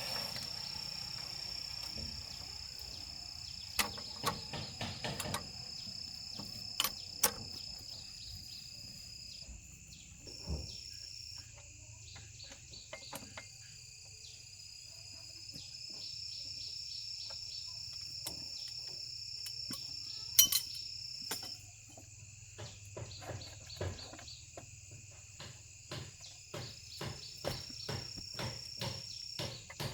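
Insects chirring in a high, steady drone that breaks off and starts again several times. Scattered clicks and knocks of work sound over it, with one sharp knock about twenty seconds in and a run of quick light ticks near the end.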